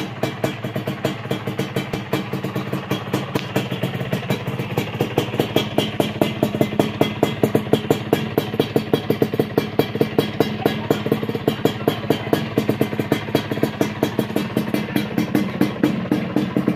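Suzuki Satria two-stroke single-cylinder engine running at idle through an aftermarket 'brat' exhaust, giving a steady, quick, pulsing exhaust note that gets a little louder about a third of the way through.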